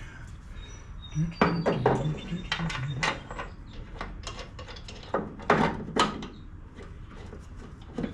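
Steel bolts clinking and knocking against a mower deck's blade spindle housing as they are handled and set in place: a scattered run of sharp metallic clicks, loudest about two, five and six seconds in.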